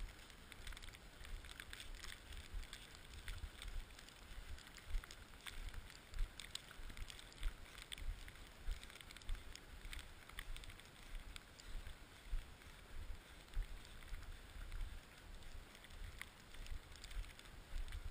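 Wind buffeting the microphone in uneven low gusts, with scattered light crackling and scraping noises over it.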